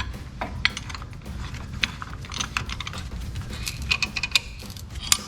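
Irregular light metallic clicks and clinks of a C-clamp being worked against a brake caliper to push its pistons back in.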